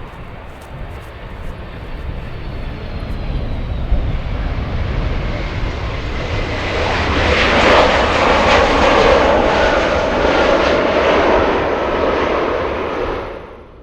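Jet airliner's engines roaring as it passes close by. The noise builds, peaks about halfway through and falls away near the end.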